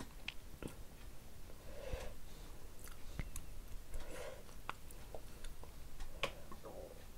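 Close-miked eating sounds: chewing a mouthful of rice and curry, with wet mouth smacks in three short bouts and many sharp, separate clicks in between.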